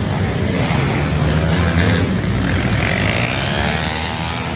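Pit bike engines running steadily, with some rise and fall in pitch.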